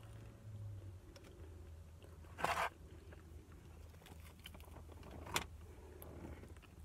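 Close-up chewing and handling of fried chicken fingers, with a short loud crunchy rustle about two and a half seconds in and a sharp click a few seconds later, over a steady low hum.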